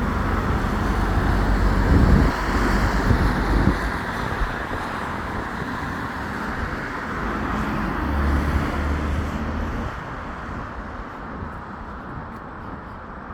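Road traffic going by with a steady tyre rush. A vehicle passes close and loud about two to four seconds in, and another engine hums past around eight to ten seconds in before the traffic noise eases off.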